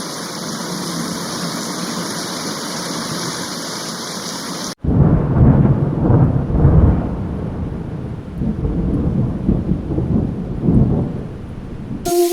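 Steady hiss of falling rain; then, after an abrupt cut about five seconds in, a loud low rumble of thunder that swells and eases several times.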